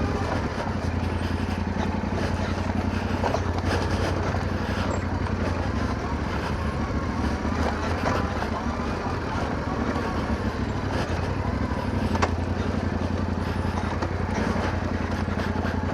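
Yamaha Ténéré 700's parallel-twin engine running at low, steady revs as the motorcycle rolls down a rough track.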